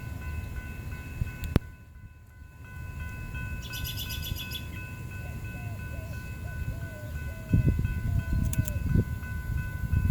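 Wind rumbling on a phone microphone outdoors, with birds chirping and calling. Underneath is a steady high whine made of several tones.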